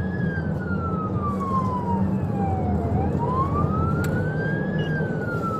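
Police car electronic siren in wail mode, falling slowly, climbing back up about three seconds in and starting to fall again, roughly one cycle every five seconds, over steady road and engine rumble.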